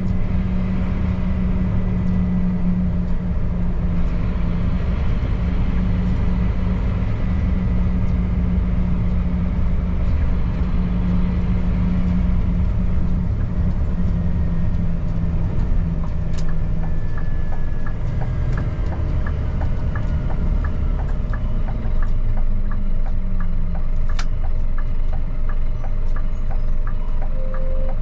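Scania P310 truck's diesel engine running steadily while driving, with road noise; the engine note eases off about halfway through, and a regular ticking runs through the second half.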